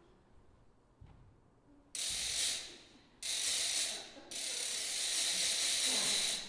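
Ratchet noisemaker cranked in three bursts, a short one, a slightly longer one and a long one, making a clockwork winding-up sound like the key of a mechanical doll being turned.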